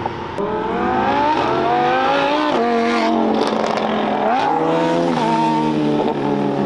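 A car engine revving hard under acceleration, its pitch climbing twice in the first few seconds, dropping, then rising and falling again as the throttle is worked.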